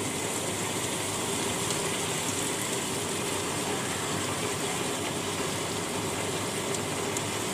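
Turkey legs and onions sizzling in a stainless steel stockpot as they brown: a steady frying hiss.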